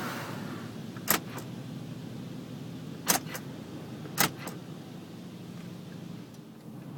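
Steady low hum inside a car going through an automatic car wash, broken by three sharp double clicks about a second, three seconds and four seconds in.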